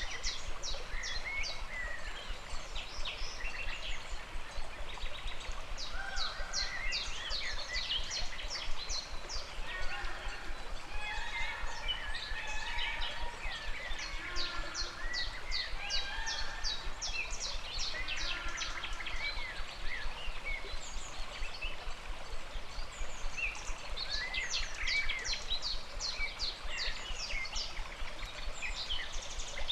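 Several birds calling and singing over the steady rush of a river, with overlapping runs of rapid high chirps and whistled notes.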